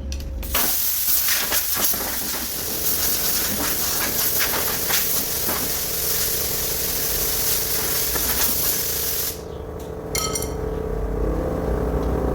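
Compressed air from a pneumatic tool hissing steadily for about nine seconds, then cutting off suddenly, with a low machine hum running underneath.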